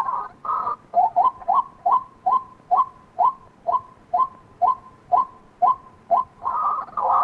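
White-breasted waterhen calling: a brief harsh croaking burst, then a long series of short, evenly repeated notes at about two to three a second, and another harsh burst near the end.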